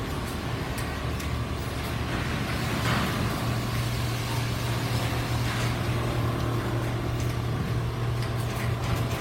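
Several computerized single-head quilting machines running together, a steady low machine hum with scattered sharp clicks over it and a brief swell of noise about three seconds in.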